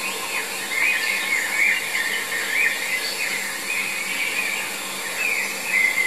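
Thin, high-pitched bird calls, wavering quickly up and down in an almost unbroken run, with louder phrases about a second in and again near the end.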